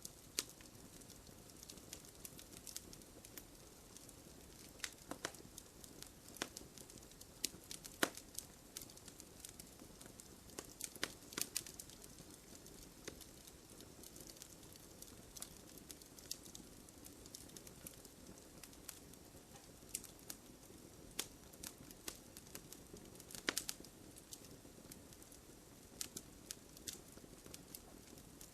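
Campfire burning, with irregular sharp crackles and pops of burning wood over a soft steady hiss.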